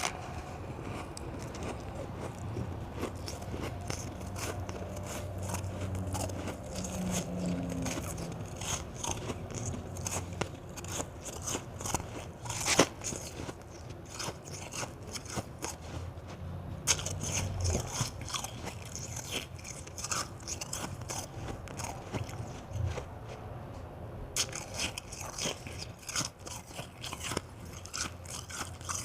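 A person biting and chewing hard white ice, with runs of crisp crunching and crackling and one sharp crunch a little before halfway.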